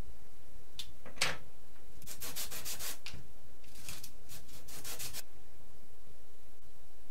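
Hand sanding: quick back-and-forth scraping strokes of sandpaper in two runs of about a second and a half each, after a single stroke about a second in.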